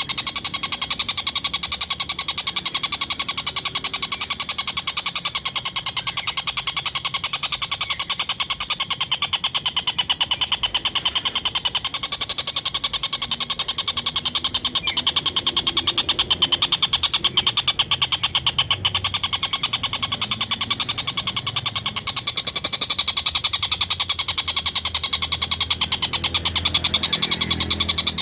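Tengkek buto (stork-billed kingfisher) giving its rapid, continuous 'ngekek' chatter, a fast run of high, even 'kek' notes that keeps going without a break.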